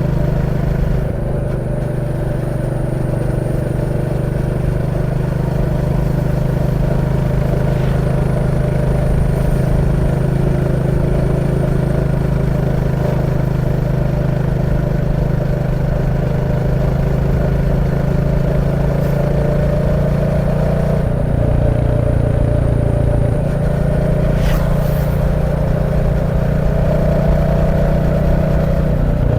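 Royal Enfield Classic 350's 349 cc single-cylinder engine running steadily under way. The engine note changes abruptly about 21 seconds in, then rises gradually near the end.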